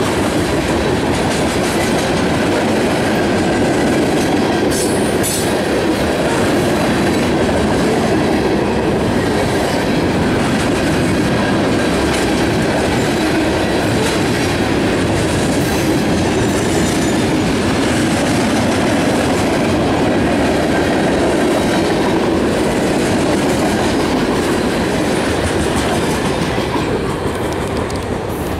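Freight train's tank cars and a loaded flatcar rolling past close by, steel wheels running steadily on the rails. The noise eases near the end as the last car clears.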